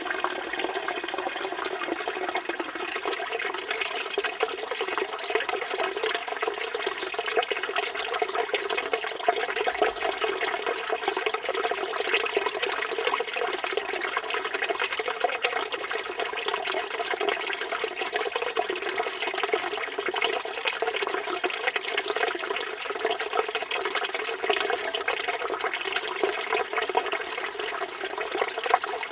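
Water from a village fountain's spout pouring and splashing into its stone trough, in a steady, unbroken stream.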